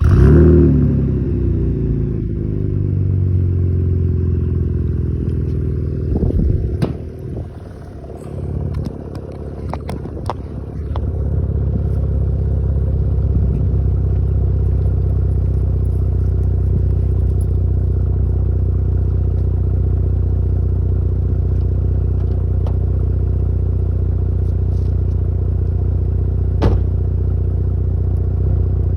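2016 Chevrolet Camaro RS with a Borla muffler starting up: the engine fires right at the start and flares, its pitch falling over about two seconds as it settles. It then idles steadily through the exhaust, with a few clicks and a dip in level partway through.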